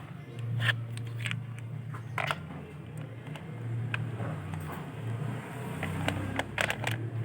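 Scattered light clicks and scrapes of multimeter probes on a car battery's cells, over a steady low hum.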